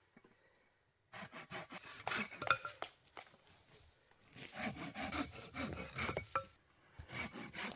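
Hand saw cutting through a dry branch for firewood: quick rasping back-and-forth strokes starting about a second in, in two runs with a short pause between.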